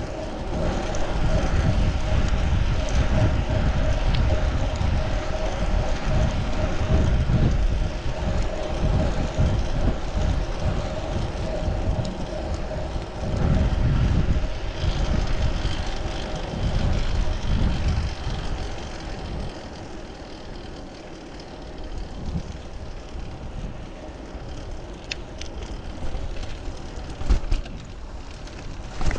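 Wind buffeting the microphone and road noise from a fixed-gear bicycle riding on pavement, with a steady hum under the gusts. The wind eases about two-thirds of the way through, and a few sharp clicks come near the end.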